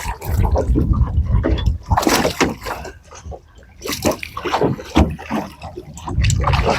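Water splashing and sloshing in irregular bursts, mixed with knocks and low rumbling handling noise.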